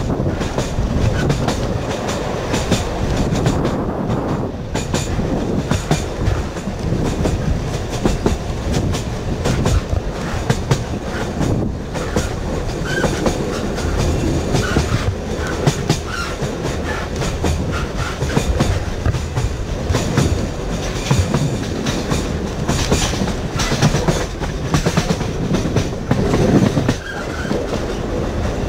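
Narrow-gauge electric train of the Sóller railway running along the track: a steady rumble with frequent clicks of the wheels over the rails, and a few faint, brief wheel squeals in the middle.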